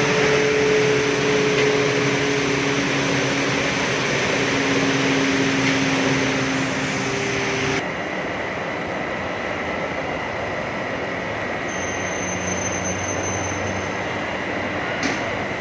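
Steady running noise of a glass tempering furnace line, a continuous hum with a few held tones. About eight seconds in the sound changes abruptly to a duller noise with a thin high tone, as from a different part of the machine.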